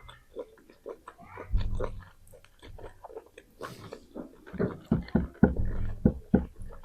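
Close-miked chewing and biting, wet mouth clicks and smacks coming irregularly, with a couple of stretches of low, dull thuds.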